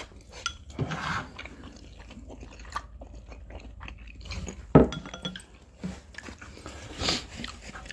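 Close-miked chewing and wet mouth noises of people eating instant ramen noodles: soft smacks and clicks, with one louder sharp sound a little past halfway.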